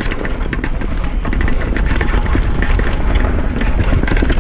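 Retro downhill mountain bike riding a trail: a steady rumble of tyres and wind, with a run of sharp rattling clicks as the bike goes over bumps.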